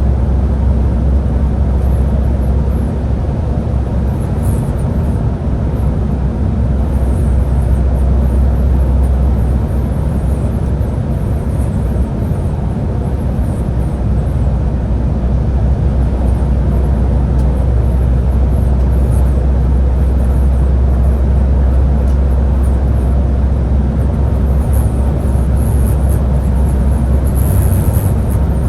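Scania Higer A30 city bus under way: a steady low drone of its engine and drivetrain mixed with road noise, with faint light rattles on top.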